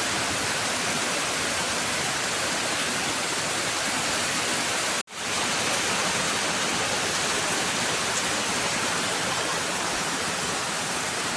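Heavy rain pouring down in a steady, even hiss, cutting out for an instant about five seconds in.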